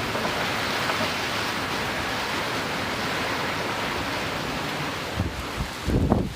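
Heavy rain pouring down in a steady hiss, with a few low thumps near the end.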